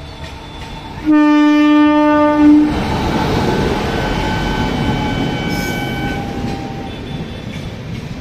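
Indian Railways WAP-7 electric locomotive sounding its horn once, a loud blast of about a second and a half starting about a second in, followed by the steady rumble of the locomotive and passenger coaches passing close.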